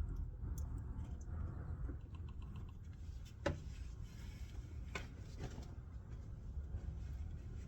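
A few sharp clicks, the loudest about halfway through, over a low steady rumble.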